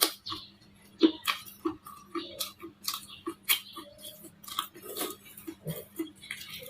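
Baked clay bars crunching as they are bitten and chewed: a quick, irregular run of sharp crunches, several a second.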